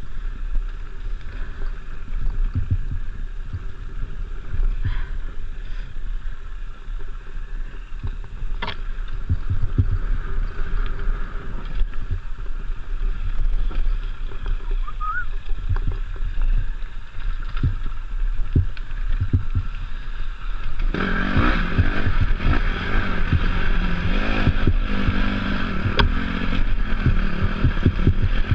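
Off-road motorcycle ridden with the camera buffeted by wind and bumps. About twenty seconds in, the engine's note comes through clearly and louder.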